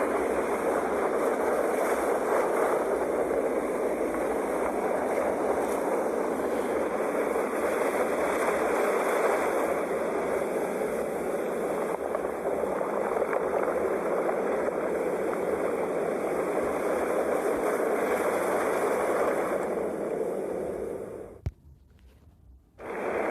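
Sea waves washing in a steady, rushing surf noise with slow swells. About 21 seconds in, the sound cuts out almost to silence for a second and a half, with a single click, then resumes.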